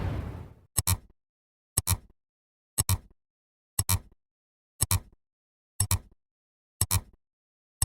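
Sharp double clicks repeating evenly about once a second, seven times, after the fading tail of a loud boom.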